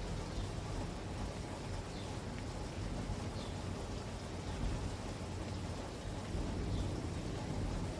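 Steady rain falling, with scattered drops pattering on surfaces; a little louder from about six seconds in.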